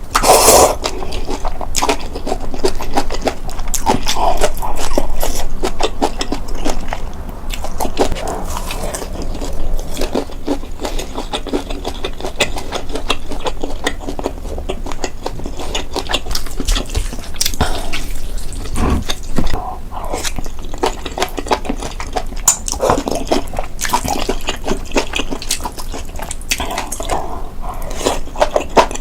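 Close-miked ASMR eating: continuous wet chewing and biting, with many small mouth clicks and crackles.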